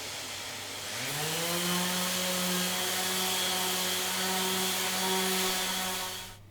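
Electric power tool motor spinning up about a second in, running at a steady pitch with a loud whirring hiss, then cutting off suddenly near the end.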